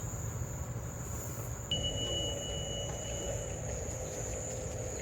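Insects trilling steadily in a thin, high drone over a low outdoor rumble. A clear, steady high tone sounds for about two seconds near the middle.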